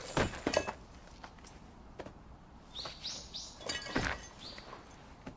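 A few short, high bird chirps in quick succession around the middle, over quiet background, with a couple of soft knocks near the start and about four seconds in.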